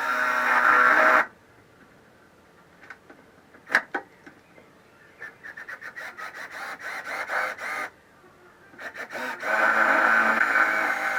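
Hand-tool work on a car's dashboard: a few sharp knocks, then a fast, even run of clicks, between louder stretches of a steady whirring sound that stops about a second in and returns near the end.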